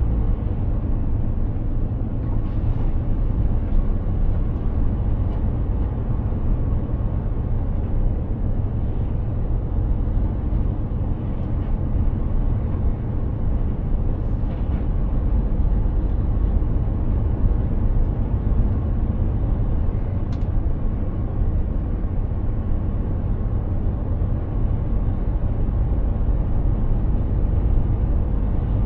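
Mercedes-Benz Actros 2763 truck under way at a steady pace: a low, unchanging drone of its straight-six diesel mixed with road and tyre noise, with a few faint ticks.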